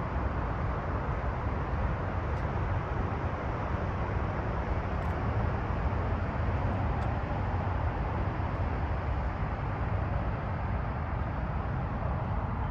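An engine running steadily, mostly a low, unchanging sound with an even hiss above it.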